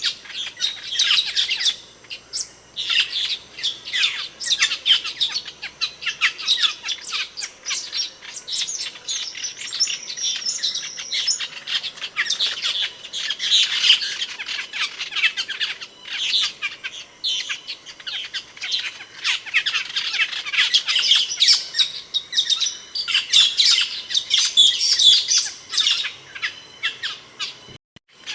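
Asian glossy starling (cucak keling) calling: a dense, unbroken run of short, sharp, high chirps, with a brief break near the end.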